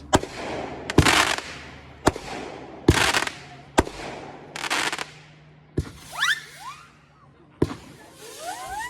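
A consumer fireworks cake firing about seven shots, each launch crack followed by a hissing burst. In the second half the shots release zippers, quick rising whistling streaks.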